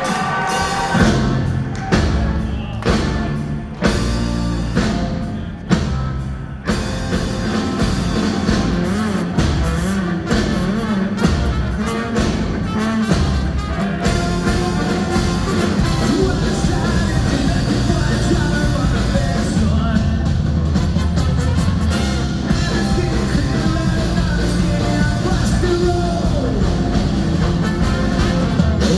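Live ska-punk band playing a fast rock song with singing. It opens with a run of sharp stop-start hits for about six seconds, then goes into full, continuous playing with drums, bass and guitar.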